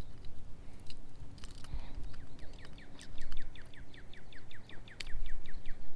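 A small songbird trilling: a rapid run of short down-slurred chirps, about seven a second, starting about two seconds in and stopping about five seconds in, over faint wind rumble. A sharp click comes near the end.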